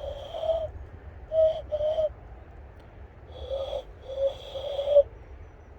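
Breathy, owl-like hoots blown through cupped hands by a person practising hand bird-calling. There are about six short hoots in two groups of three, all at the same pitch, and the last is the loudest.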